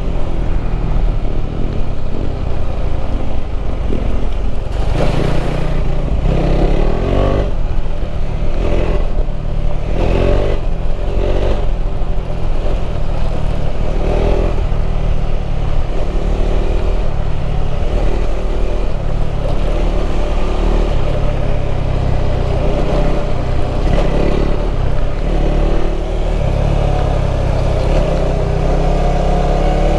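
KTM 390 Adventure's single-cylinder engine being ridden off-road, revving up and falling back again and again through the first half. It then runs steadier and climbs in pitch near the end.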